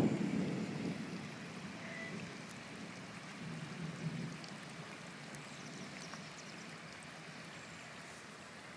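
The tail of a thunder rumble fading out in the first second or so, then a steady wash of rain and floodwater running over the street.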